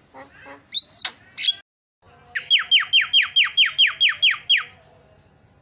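Javan myna (jalak kebo) calling: a few short whistles and chattering notes, then, after a brief break, a fast run of about a dozen sharp descending notes, roughly five a second.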